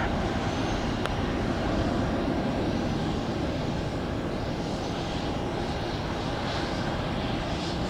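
Jet airliner engine noise, a steady rushing sound that slowly fades, with a faint click about a second in.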